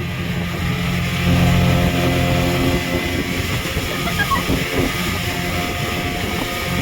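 Speedboat engine running steadily under way, with rushing water and wind noise. The engine note is loudest between about one and three seconds in.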